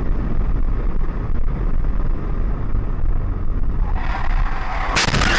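Dashcam recording of a car on the road: a heavy low rumble of engine and road noise with wind buffeting the microphone. About five seconds in comes a sudden, loud, harsh noise burst that lasts about a second.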